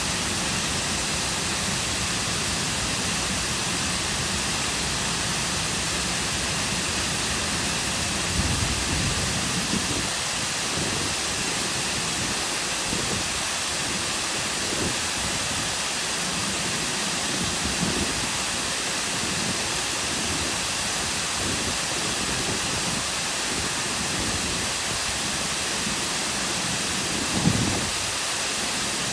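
Cascading waterfall pouring into a lake: a steady, even rush of falling water. A brief low bump comes about eight seconds in, and a sharper one, the loudest moment, comes near the end.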